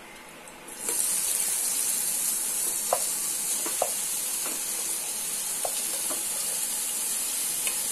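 Marinated prawns hitting hot oil in a non-stick frying pan: a steady sizzle that starts suddenly about a second in, with a few light clicks.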